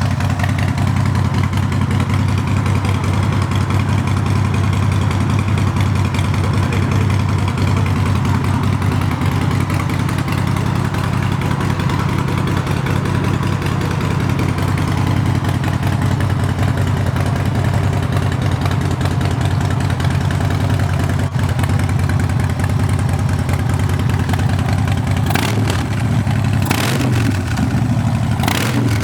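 Harley-Davidson Street Glide Special's V-twin engine idling steadily through custom aftermarket exhausts. Near the end there are a few short changes in the running, likely brief throttle blips.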